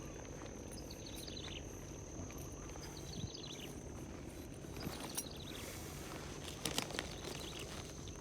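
Outdoor animal calls: a short, high chirping call repeats about every two seconds over a steady high-pitched whine and a low rumble, with a few faint knocks about halfway through and again later.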